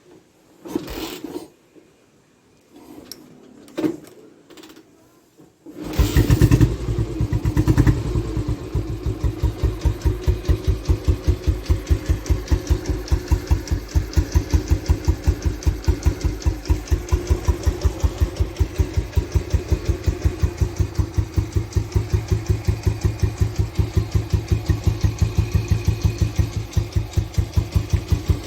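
Royal Enfield Bullet's single-cylinder four-stroke engine starting after a few short knocks, about six seconds in. It runs loudest for the first couple of seconds, then settles into a steady idle with an even, rapid thump.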